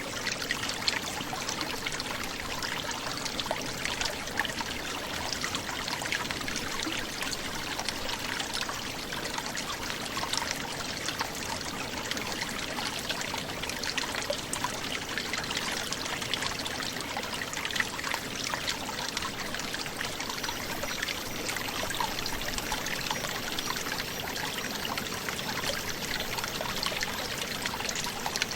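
Forest brook gurgling and trickling steadily.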